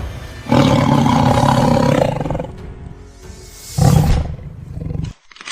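A tiger roaring twice: a long roar starting about half a second in, then a shorter one near the end, over background music.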